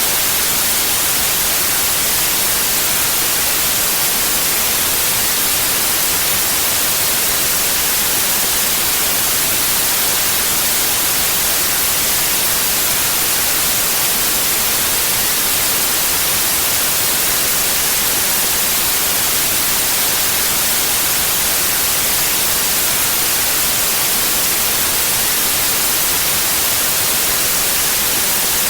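Steady white noise: an even, unchanging hiss weighted toward the treble, with no other sound.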